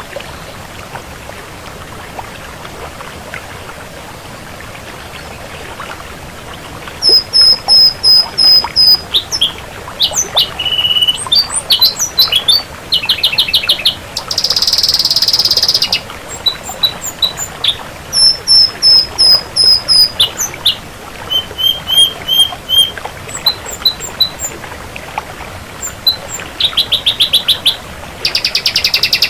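Ashy drongo singing: after about seven seconds of faint background noise, a varied run of high repeated whistled notes, quick rattling trills and a harsh buzzy call, delivered in short phrases with brief gaps.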